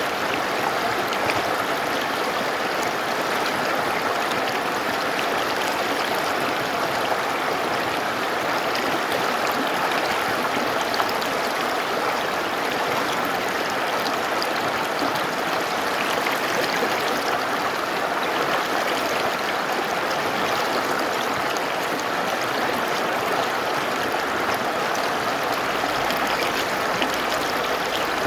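Mountain river flowing steadily, a continuous even rush of water.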